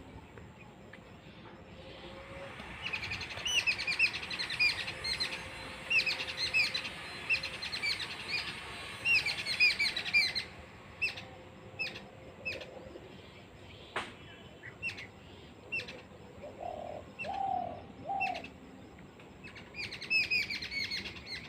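Birds squabbling: fast runs of sharp, high chirps repeated several times a second, loudest about three seconds in and again near the end, with scattered single calls between and three lower calls partway through.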